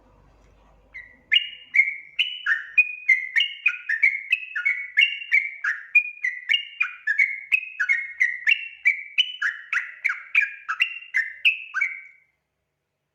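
Yellow-vented bulbul (trucukan) singing vigorously: a long, rapid run of bubbly, slurred whistled notes, about two or three a second. It starts about a second in and stops near the end. This is a lure call used to draw wild bulbuls into song.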